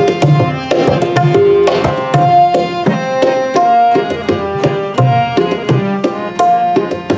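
Instrumental kirtan interlude: tabla playing a fast pattern of sharp strokes under a melody of held reed-like notes, typical of a harmonium, with no singing.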